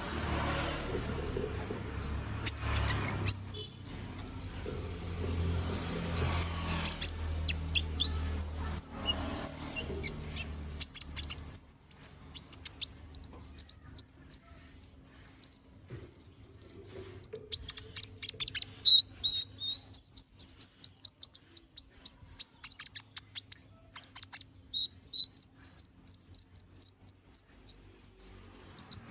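Brown-throated sunbird (konin) singing vigorously: long runs of rapid, thin, high chirps and short trills, several notes a second. A low rumble lies under the first dozen seconds, then drops away.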